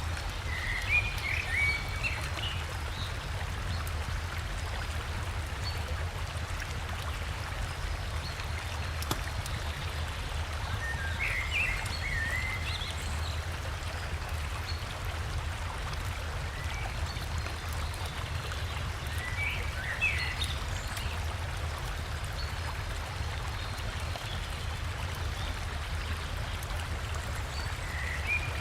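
Flowing river water, a steady rushing with a deep low rumble, while a bird sings a short phrase four times, about every nine seconds.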